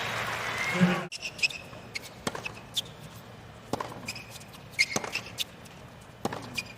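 Tennis rally on a hard court: sharp racket strikes on the ball about every second or so, with short sneaker squeaks. Crowd applause in the first second cuts off suddenly.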